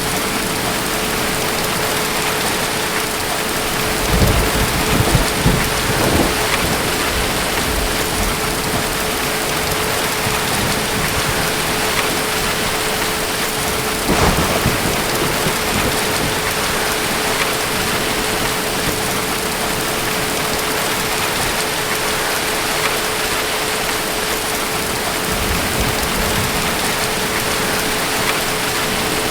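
Steady heavy rain with low rumbles of distant thunder, swelling about four to six seconds in, again around the middle, and more faintly near the end.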